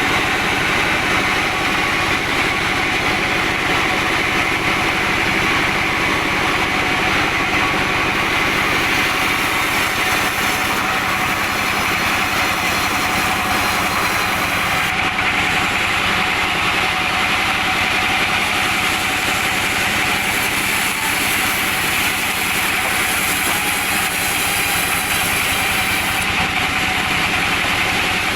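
Engine-driven sawmill machinery running steadily: a constant engine note under an even hiss, with no breaks.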